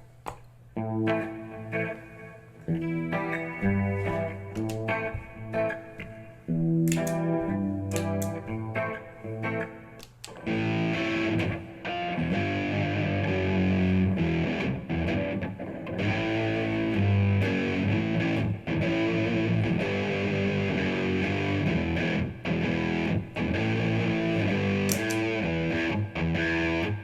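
Electric guitar played through a Bluguitar Amp1 amp with Boss MS-3 effects: separate chords and notes with short gaps at first, then about ten seconds in a fuller, more sustained and brighter distorted tone.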